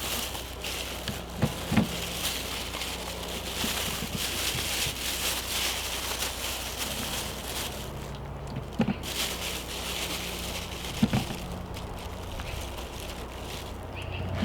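Potatoes being handled and put into a bag for weighing: steady rustling with a few dull knocks as potatoes drop in.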